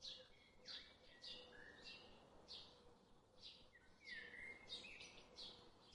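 Faint birdsong: short high chirps repeating about every half second, with a few lower sliding whistled notes, over a soft steady background hum.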